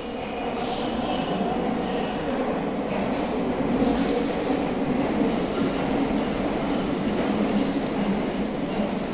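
Meitetsu 6800 series electric train running through a station, its noise growing louder right at the start and then holding steady.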